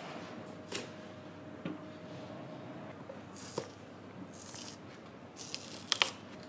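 Hand tools working on a shoe: a few light clicks and taps, then several short scraping or cutting strokes, the loudest a quick double stroke near the end, over a faint steady hum.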